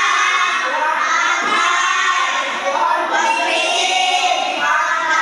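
A class of young children's voices shouting and chanting together at once, loud and overlapping.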